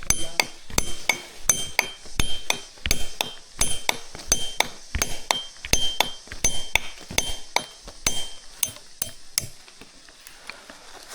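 Metal struck repeatedly with a hard tool, about three blows a second, each giving a bright ringing clink. The blows stop about nine and a half seconds in.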